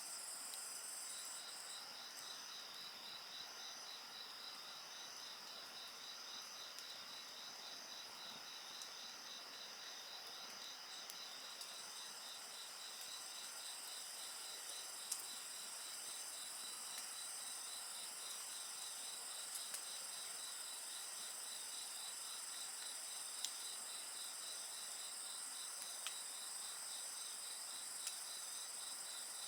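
A chorus of insects singing steadily, one with a fast, even pulsing chirp, over a wood campfire that gives a few sharp pops and crackles, the loudest about halfway through.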